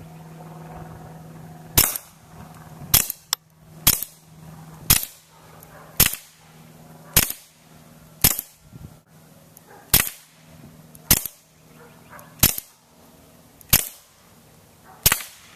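Suppressed .22 LR pistol shots from a Smith & Wesson M&P 22 wearing a SilencerCo Sparrow suppressor: about a dozen sharp cracks, fired roughly one a second.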